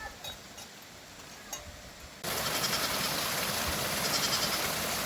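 A few faint clicks, then about two seconds in a sudden change to a loud, steady rush of heavy rain and running water.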